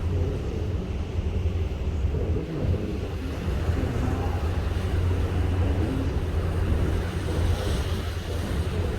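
Wind blowing over the microphone on a ship at sea, over a steady low rumble.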